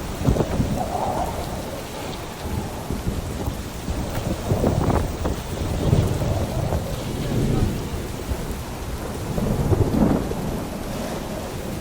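Steady rain falling, with low rumbling surges that rise and fall every second or two, loudest about five, six and ten seconds in.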